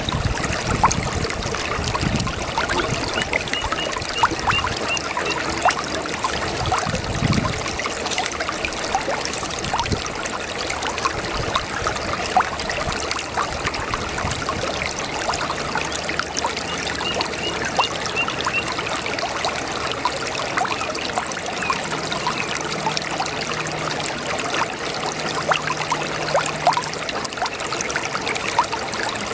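Brook babbling and trickling steadily, full of small splashes and drips.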